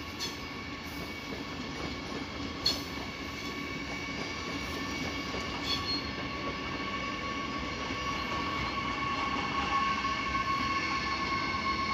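A train moving through the station, giving off steady high-pitched squealing tones over a rumble that grows slowly louder, with a few sharp clicks along the way.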